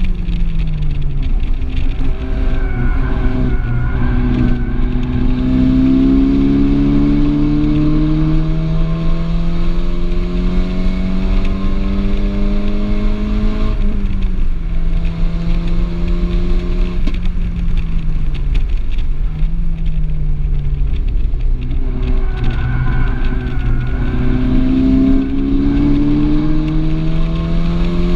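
Volkswagen Golf R's turbocharged four-cylinder engine heard from inside the cabin at full throttle, its pitch rising steadily through one long pull, then dropping sharply about halfway as the driver lifts and shifts down, and climbing again under hard acceleration near the end, over steady road and tyre noise.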